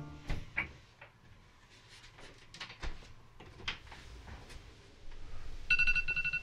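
Faint knocks and rustles in a quiet room, then near the end an electronic wake-up alarm starts beeping in fast, high-pitched pulses.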